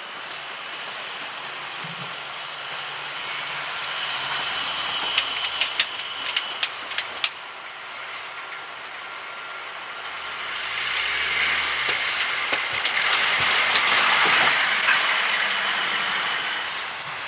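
A diesel-hauled train of baggage and passenger cars running on the line. Wheels click quickly over rail joints about five to seven seconds in, then a louder rushing rail noise swells toward the middle of the pass and eases off near the end.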